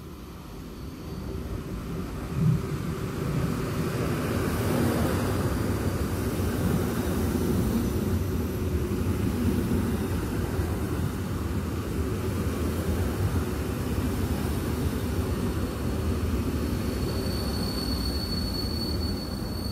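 SKM Warszawa 14WE electric multiple unit pulling into a station. Its wheels and running gear make a steady rumble that grows louder over the first few seconds as it comes alongside, with a single thump a couple of seconds in. A thin, high squeal comes in near the end as the train slows.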